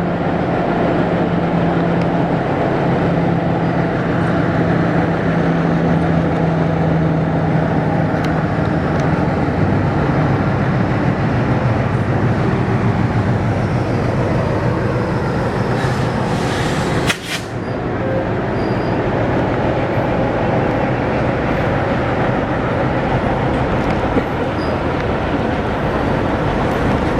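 Train running: a steady rumble and clatter, with a low steady hum for the first nine or ten seconds that then fades, and a brief dip in the noise about seventeen seconds in.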